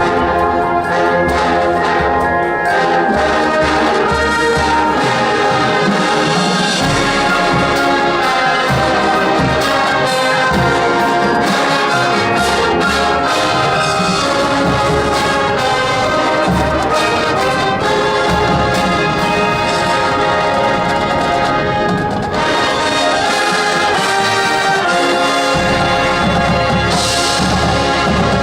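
High school marching band playing full out, brass section (trumpets and trombones) carrying the music over a steady beat of drums.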